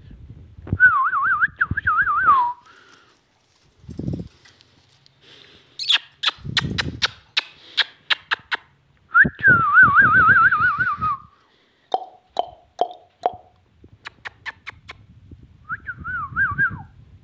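Pet parrot whistling a wavering, trilled phrase three times, with runs of sharp clicks and a few short calls in between.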